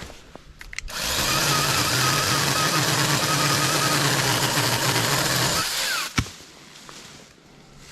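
Battery-powered Saker 20-volt mini chainsaw running at steady speed for about five seconds, then stopping; a single sharp knock follows shortly after.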